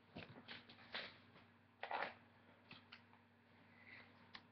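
Faint handling noise: a few soft, scattered clicks and rustles as small objects are picked up and moved by hand.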